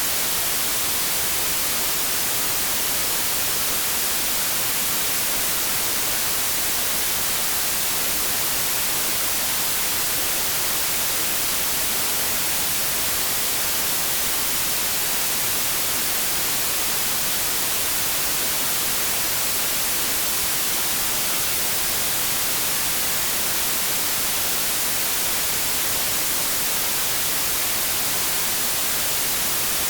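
Steady, unchanging white noise: an even, continuous hiss, brightest in the treble.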